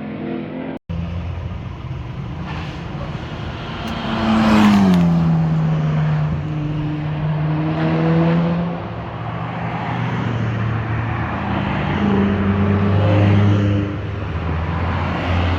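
Sports cars' exhausts as cars drive past one after another, a brief cut about a second in. The loudest passes about four seconds in, its engine note dropping sharply in pitch as it goes by, then more cars follow with rising and falling engine notes.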